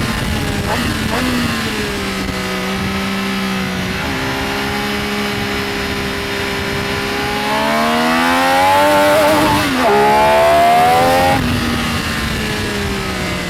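Benelli Tornado Tre 900's three-cylinder engine under way on track: the engine note drops at the start, holds steady for several seconds, then climbs as the throttle opens, with a brief dip at a gear change, and falls away again shortly before the end.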